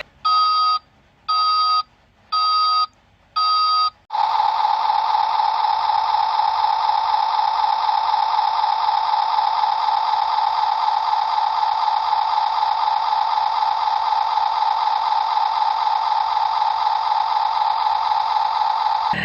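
Four short electronic beeps about 0.7 s apart, then a steady electronic buzzing tone that holds unbroken from about four seconds in.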